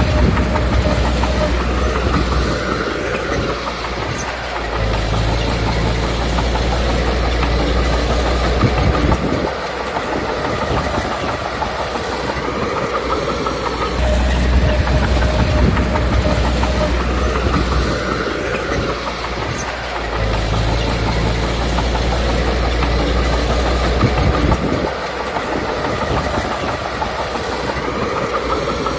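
Komatsu D21P crawler bulldozer working, its diesel engine and steel tracks clattering. The engine note rises and falls in a repeating cycle every five or six seconds as the dozer works back and forth.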